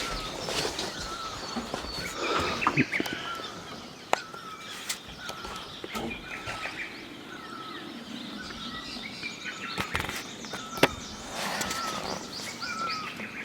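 Small birds chirping and calling in short, repeated notes, with a couple of sharp clicks.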